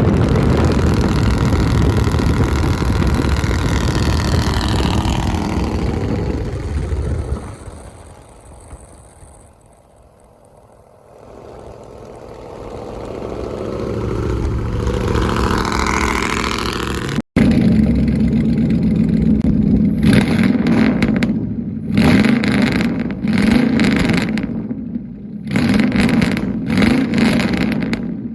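Pickup trucks with loud aftermarket exhausts. One runs loud and fades away over the first several seconds, and another comes back in rising in pitch. After a sudden cut, a truck revs in repeated surges over a steady low drone.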